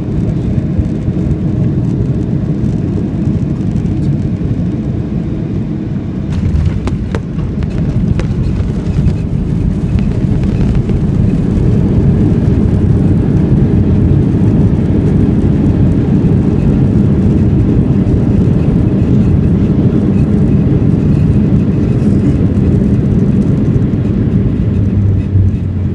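Cabin noise of a Boeing 737-800 during landing: a loud, deep rumble of engines and rushing air. A few brief knocks come about six seconds in, then the rumble grows louder and holds steady.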